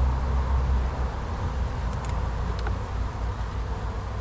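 Honey bees buzzing around an opened hive under a steady low rumble, with a couple of faint clicks about halfway through.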